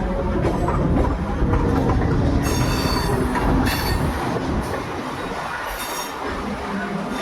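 Train running on the rails with a heavy low rumble, broken by brief high-pitched wheel squeals about two and a half, three and a half and six seconds in.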